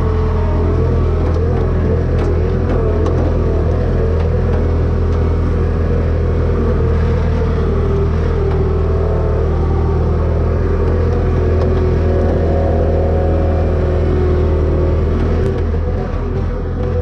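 An engine running steadily, its pitch wavering slightly, dropping a little in level about a second before the end.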